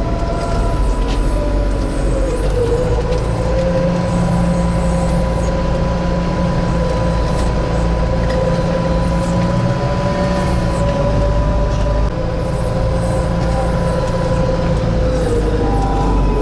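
Tucker Sno-Cat running steadily under way on a snowy trail: a loud engine drone with a low rumble and a whine that wavers slightly in pitch.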